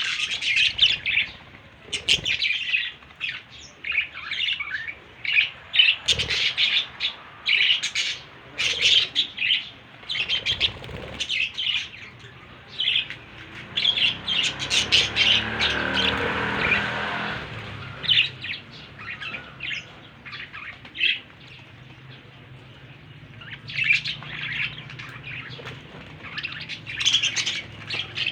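Baby budgerigars chirping and squawking in quick, repeated calls. A steadier, noisier sound lasts a few seconds around the middle, and the calls thin out for a while after it.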